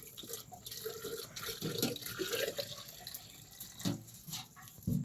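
Water running or splashing for a few seconds, followed by two sharp knocks near the end.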